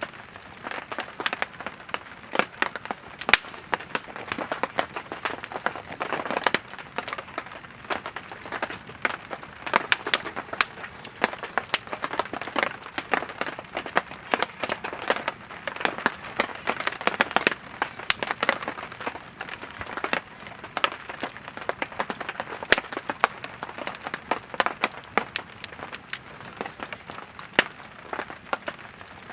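Firewood burning in a campfire: constant irregular crackling and sharp pops over a soft hiss of the flames.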